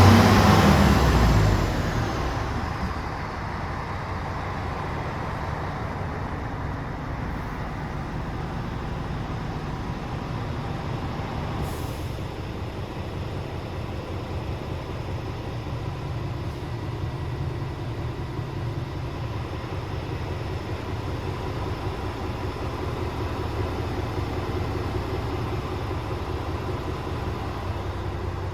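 Scania R450 truck's 13-litre six-cylinder diesel idling steadily. It begins with a loud rushing sound that dies away over the first two seconds, and there is a single short click about twelve seconds in.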